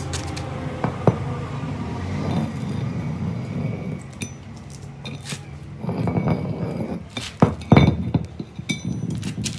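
Metal tools and parts clinking and knocking with a scatter of sharp strikes, the loudest near the end, over a low steady hum.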